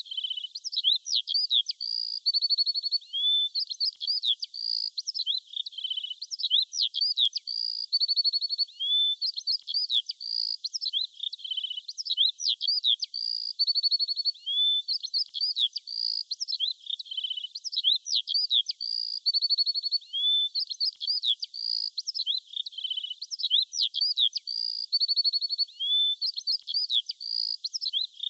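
Songbird chirping in high, quick notes, mixing short sweeps with a rapid trill. The same phrase sequence repeats about every five and a half seconds, as a looped birdsong track.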